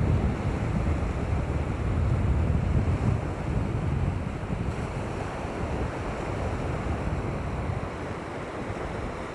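Wind buffeting the microphone over the steady wash of surf on the shore, a low rumble in gusts that ease off toward the end.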